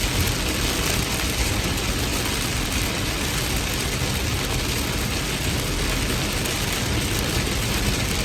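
Heavy rain falling steadily, a continuous hiss over a constant low rumble.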